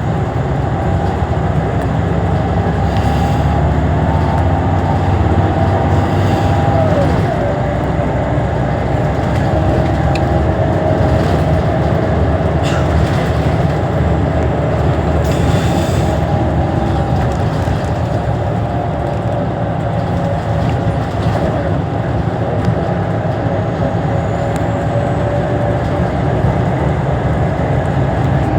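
Scania L94UB city bus running steadily: a constant engine drone with a whine that wavers a little in pitch.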